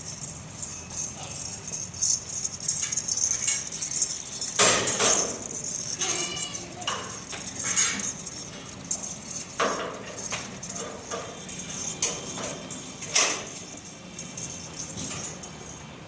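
Goats moving about in a pen: irregular knocks and clatter of hooves, with a short animal call about six seconds in.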